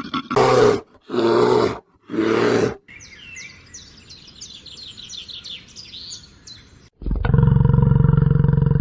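A run of animal calls: three harsh, rough roar-like calls in quick succession, then a rapid series of high, falling bird chirps, about four a second. About seven seconds in, a loud, low, drawn-out call starts suddenly.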